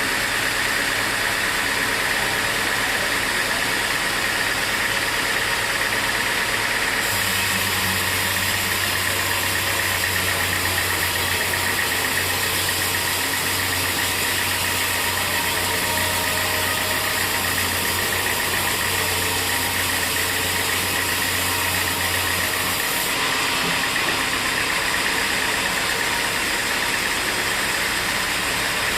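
Sawmill machinery running steadily. A second machine joins with a low hum about a quarter of the way in and drops out again about three quarters of the way through.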